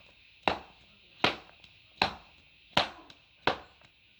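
Leather baseball glove, a Kubota Slugger L7, struck in the pocket five times with sharp slaps about three quarters of a second apart.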